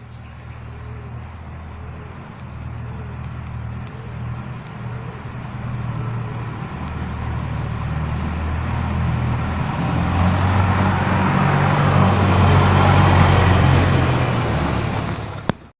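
Boat engine running with a steady low drone, growing steadily louder for most of the stretch before cutting off abruptly near the end.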